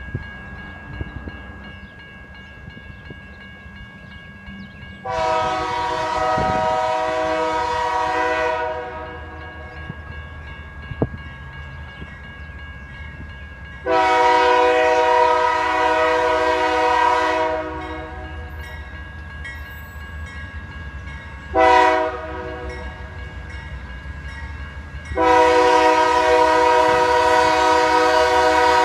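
Diesel freight locomotive's multi-chime air horn sounding long, long, short, long: the standard grade-crossing warning as the train approaches. The last long blast is still sounding as the train draws near, over a low rumble.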